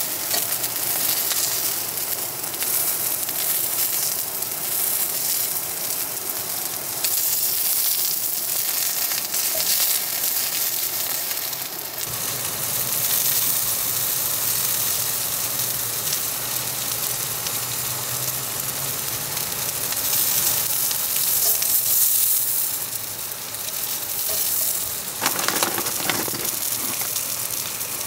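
Sausages sizzling steadily in a hot cast iron pan, a continuous frying hiss.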